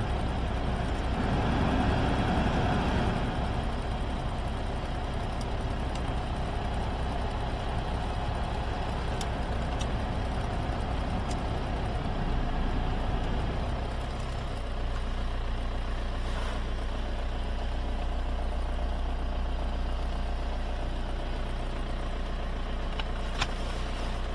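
Opel Omega 2.0 DTI four-cylinder turbodiesel running steadily; about halfway through the sound drops and settles into a steady low idle hum.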